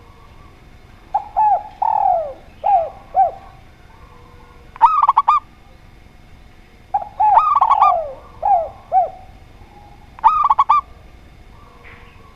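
Spotted dove and zebra dove cooing in turn. Twice, a phrase of lower cooing notes that fall in pitch is followed by a short burst of quick, higher coos.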